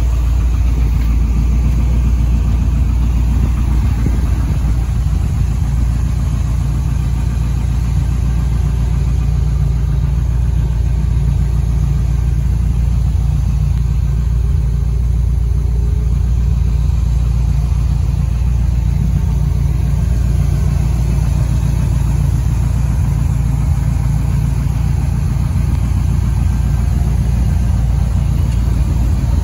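A 1941 car's engine idling steadily: an even, low rumble with no change in speed.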